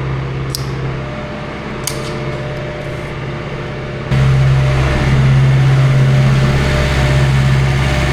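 A machine running with a steady low drone, a few light clicks in the first half, jumping abruptly louder about four seconds in.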